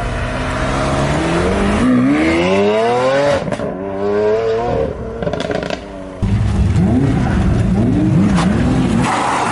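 Supercar engine revving through its exhaust: one long rev climbing steadily for about two seconds, then, after a cut to another car, three quick throttle blips rising and falling.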